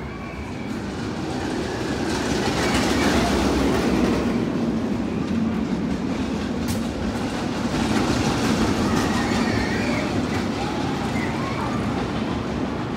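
Roller coaster train rumbling along its track, swelling over the first few seconds and then running on steadily, with faint wheel squeal above it.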